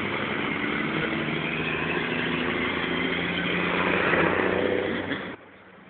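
A motor vehicle's engine running amid road and wind noise, steady and loud, cutting off abruptly near the end.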